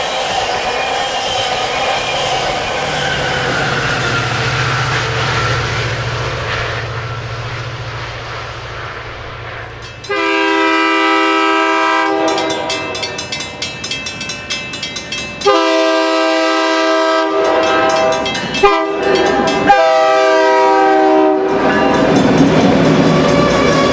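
A train rolling past with rail noise, then its air horn sounding a chord in the long, long, short, long pattern used at grade crossings, starting abruptly about ten seconds in.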